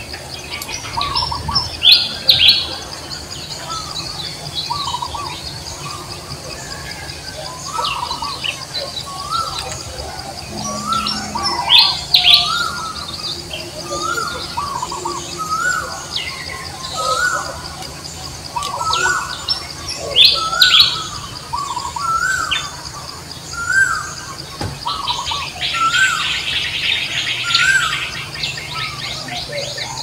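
Birds chirping: a short rising-and-falling chirp repeats about once a second, with louder sharp calls now and then and a steady high buzz behind.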